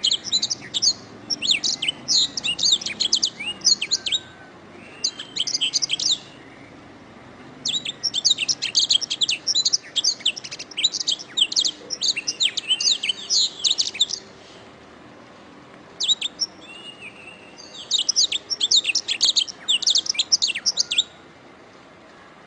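Canary singing: long phrases of rapid, high chirps and trills, broken by short pauses of a second or two.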